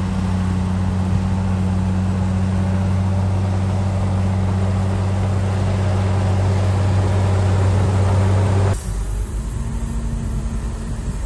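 Heavy earthmoving machine's diesel engine running steadily; about nine seconds in the sound switches abruptly to a quieter, rougher engine sound.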